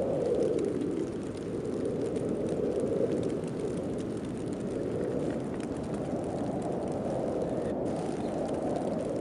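Snowstorm wind blowing as a steady low rushing noise that swells and eases slowly.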